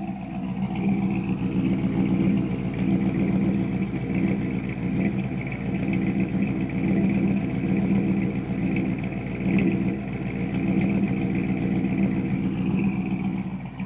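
Chevrolet 327 small-block V8 idling steadily.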